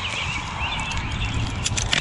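Small wild birds chirping and chattering, with a few sharp clicks near the end and a steady low hum underneath.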